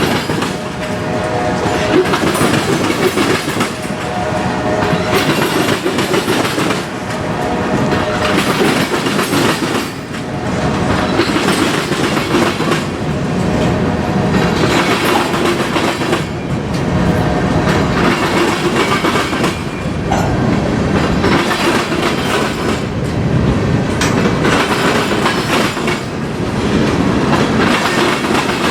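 Railroad cars rolling past close by, steady and loud, their wheels clacking over rail joints again and again.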